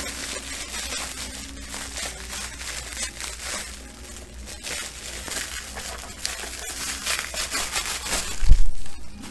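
Packaging being crinkled and crumpled by hand in a run of irregular crackles, with one loud thump about eight and a half seconds in.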